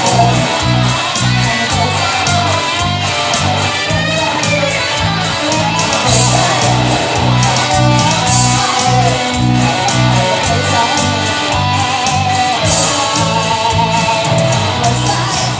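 Live rock band music with no singing: an instrumental electric guitar passage over a steady bass line and beat.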